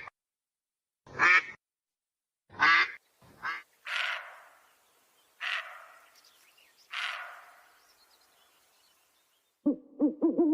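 A duck quacking, three short calls, followed by three longer, harsher calls about a second and a half apart. Near the end a different bird starts a low hooting, an owl.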